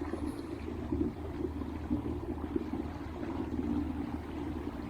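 Electric trolling motor on a fishing kayak running steadily, a constant low hum with a fluttering, water-like hiss over it, as the kayak moves across the lake.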